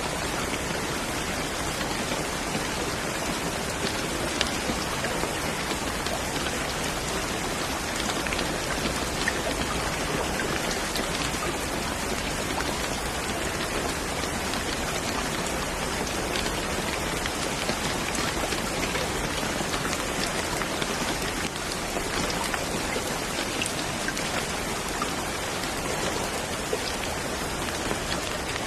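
Steady rain falling on a surface, a dense even hiss with scattered sharper drop ticks.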